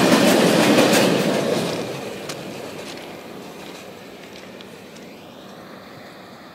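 Wagons of a heavy freight train rolling past, their steel wheels clacking over the rail joints. Around two seconds in the last wagon goes by and the rumble fades away as the train moves off.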